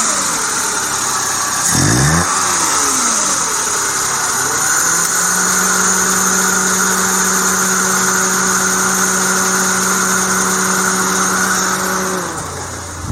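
Suzuki Jimny's K6A 660 cc turbo three-cylinder engine being revved in a running test: a quick blip up and back down, then the revs rise and are held steady at raised speed for several seconds before being released near the end.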